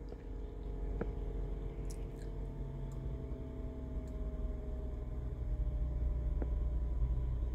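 Toyota Sienna minivan's engine idling with a low steady hum, and a couple of faint clicks.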